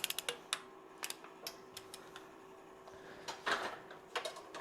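Irregular sharp metallic clicks of a wrench ratcheting on cylinder head bolts: a quick run at the start, then single clicks, with a short scraping rustle about three and a half seconds in.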